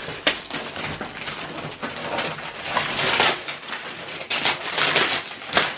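Wrapping paper and packaging being handled and torn open: a run of irregular crinkly rustles and scrapes, busiest in the second half.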